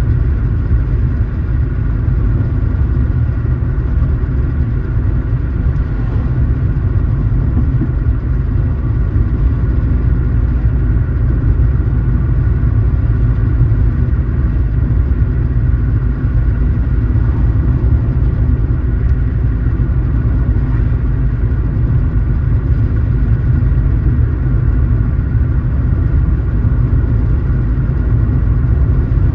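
Car driving at a steady speed: engine and road noise making an even low rumble.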